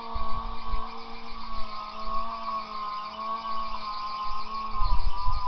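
Motorcycle burnout: the engine is held at high revs while the rear tyre spins on the pavement, making a steady, slightly wavering tone. The pitch shifts near the end.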